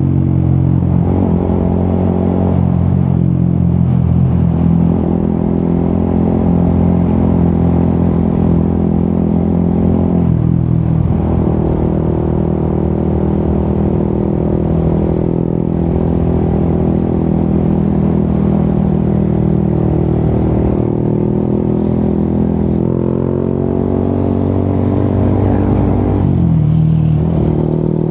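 Yamaha XSR 155's single-cylinder engine running through an Akrapovic aftermarket exhaust while riding. The engine note is steady and loud, and its pitch dips and climbs again a few times as the rider shifts and rolls on the throttle.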